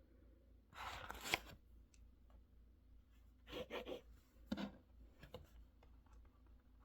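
Handling sounds at a study desk: a short rustling scrape about a second in, another pair in the middle, a sharp knock just after, then a few light clicks.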